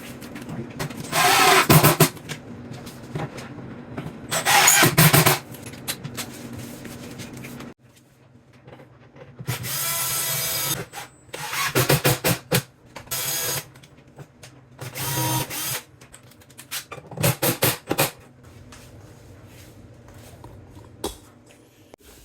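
A power drill run in about six short bursts of one to two seconds each, driving screws to fix a filler panel to IKEA base cabinets.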